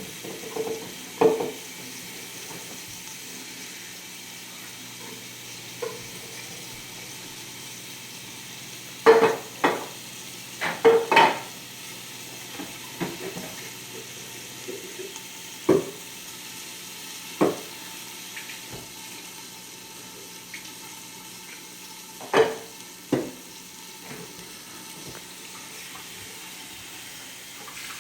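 Chicken pieces browning in a covered frying pan, a steady sizzle. Over it, scattered sharp clatters of dishes and utensils, with a cluster of loud knocks about nine to eleven seconds in and two more near twenty-two seconds.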